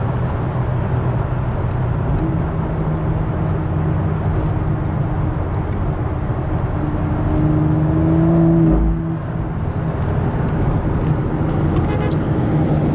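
A car engine running steadily with road noise. About seven seconds in the engine note rises and gets louder, then falls back a second or two later.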